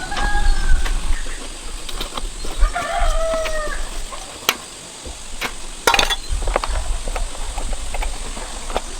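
A rooster crowing twice, a few seconds apart, over a low rumble, with scattered sharp clicks and knocks.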